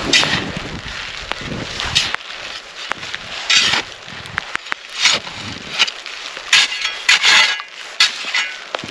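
Irregular crunching and cracking noises, with sharp clicks in between.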